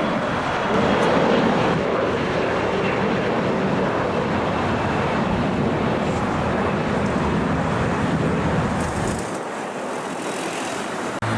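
Loud rushing noise of a passing airliner's jet engines. It is strongest about a second in, then eases and thins out about nine seconds in.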